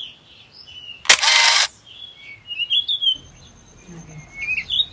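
Small birds chirping and twittering again and again, with a short loud burst of hissing noise about a second in.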